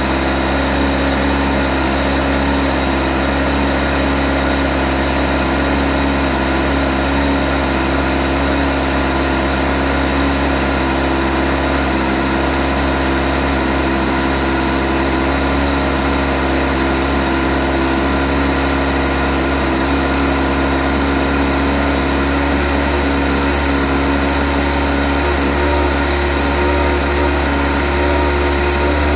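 2008 Kawasaki ZX-14's inline-four engine idling steadily, with the ticking noise that its owner is recording to track down.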